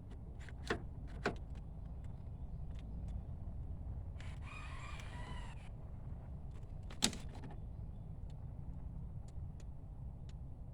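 A rooster crows once, about four seconds in, for a second and a half. Three sharp clicks come before and after it, the loudest about seven seconds in.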